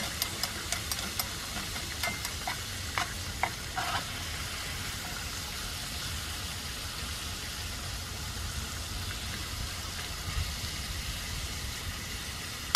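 Garlic and pepperoni slices sizzling in olive oil in a small pan, with a steady frying hiss. A utensil clicks and scrapes against the pan as it stirs, most often in the first four seconds.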